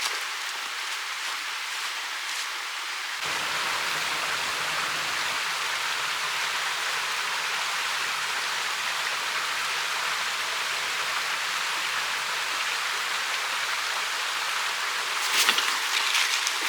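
Mountain stream flowing: a steady rush of water that gets a little louder about three seconds in, with a few light clicks near the end.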